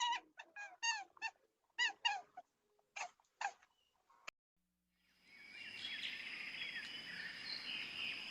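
A string of about ten short, high animal calls, each falling in pitch, over the first three and a half seconds. From about five seconds in comes a steady background of bird chirps with a thin high tone running through it.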